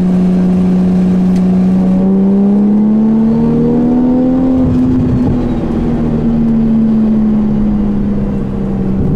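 Nissan Skyline GT-R's RB26 twin-turbo straight-six running while driving, heard from inside the car. Its pitch rises gently a couple of seconds in and eases back down afterwards.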